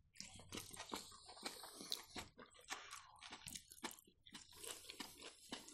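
Faint, irregular close-up chewing of sushi rolls: soft wet clicks and small crunches from the mouth.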